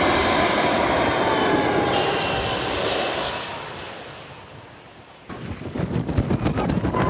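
Jet airliner passing low overhead, its engine noise loud with a slowly falling whine, fading away over a couple of seconds. About five seconds in it cuts abruptly to gusty wind buffeting the microphone.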